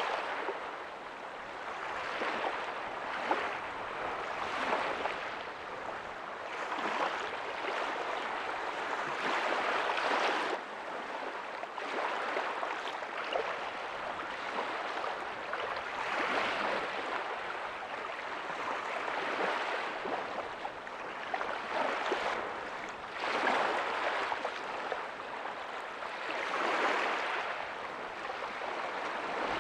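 Ocean waves breaking softly on a beach: a steady surf hiss that swells and eases every two to three seconds.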